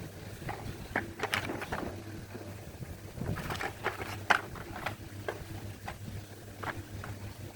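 Scattered light clicks and short scraping rustles, as of small objects being handled and knocked together, over a steady low hum.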